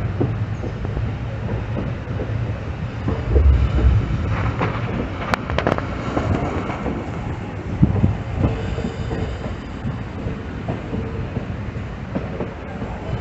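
Passenger train running on the rails: a steady rumble with scattered sharp clicks from the wheels. A faint tone comes and goes in the second half.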